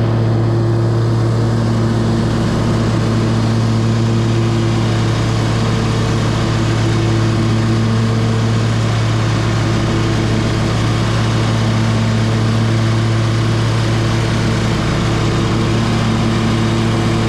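Commercial ride-on lawn mower engine running steadily at a constant pitch, with a haze of blade and air noise over its hum.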